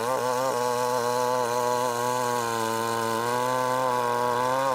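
Stihl MS881 two-stroke chainsaw running under load while ripping a large log lengthwise. The engine note wavers slightly at first, then holds steady.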